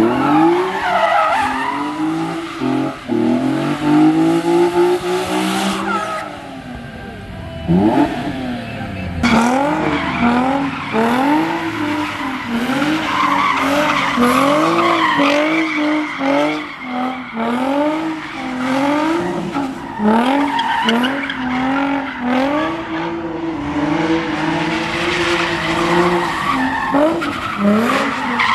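A car engine revving up and down over and over, about once a second, with tyres squealing as the wheels spin on the pavement.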